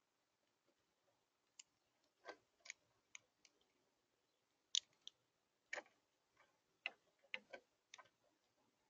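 Birds pecking and hopping on a bird feeder: about a dozen irregular sharp taps and clicks over near silence, a few with a duller knock.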